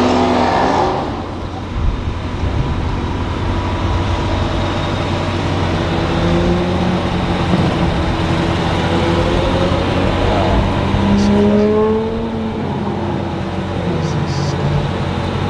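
Engines of a drag race between an Audi TT RS and a turbo-and-supercharged Ram TRX, running loudly with rising pitch as they accelerate, a first rise about six seconds in and a second about ten seconds in.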